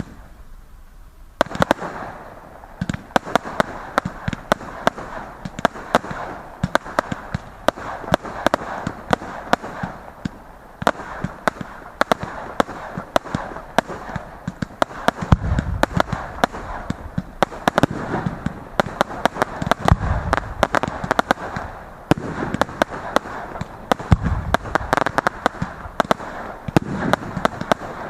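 Fireworks display: a dense run of crackling and sharp bangs starts about a second and a half in and goes on without a break, with deeper booms several times.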